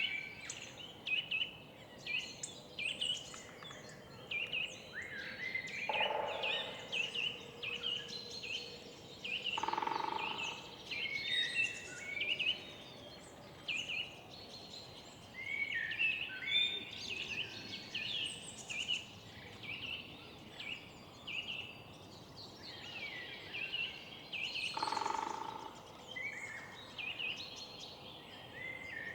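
Many songbirds singing and chirping at once, dense overlapping short phrases, over a low background hum. Three brief lower calls stand out, about six, ten and twenty-five seconds in.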